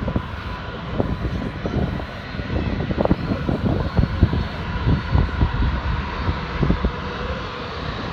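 Boeing 737-900ER's twin CFM56-7B turbofans at takeoff power: a loud steady jet noise with irregular low crackling and a faint steady whine.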